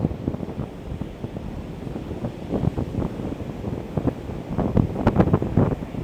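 Strong wind buffeting the microphone in irregular gusts over the continuous wash of heavy ocean surf, with the gusts strongest near the end.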